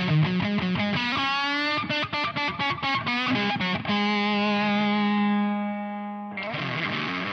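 Distorted electric guitar through an Ibanez Metal Charger distortion pedal, riffing, then a run of short choppy stabs. A held note rings for about two seconds and fades before the riffing starts again.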